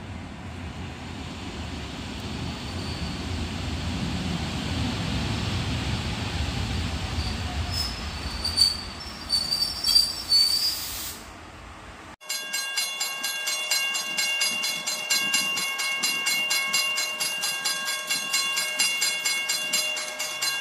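ED72Ac electric multiple unit rolling into a platform, its rumble building, with several sharp high squeals from the wheels and brakes as it slows to a stop. About twelve seconds in, the sound cuts abruptly to outro music with a steady beat.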